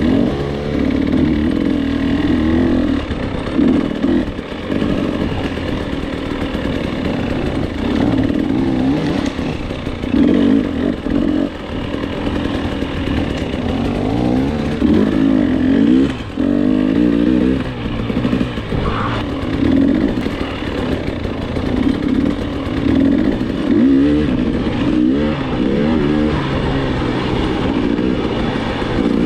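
Enduro dirt bike engine revving up and down over and over as the throttle is opened and closed along the trail.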